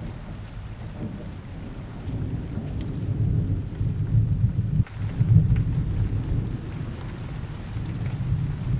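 Rain with low rolling thunder that swells through the middle and eases off, with scattered drop ticks over the steady rain, and a momentary cut-out about halfway.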